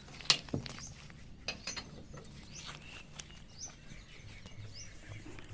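Scattered sharp metallic clicks and taps of a wrench working the wheel bolts on a tractor tyre. The loudest click comes near the start.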